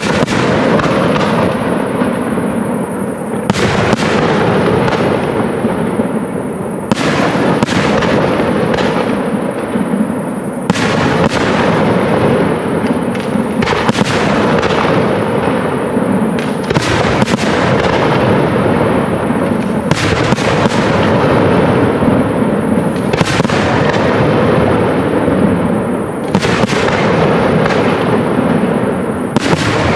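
Professional aerial fireworks display: a dense, continuous barrage of shell bursts, sharp reports and crackling overlapping one another throughout. It begins abruptly and stays loud.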